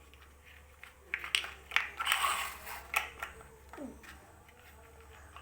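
Plastic Lego bricks clicking and clattering as they are handled and pressed together: a few sharp clicks and a short rattling clatter about two seconds in.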